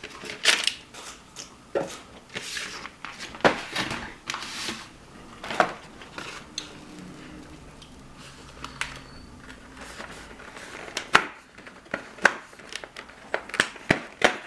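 Crinkling and crackling of packaging being handled, with scattered sharp clicks and taps, as Advent calendar treats are opened and unwrapped.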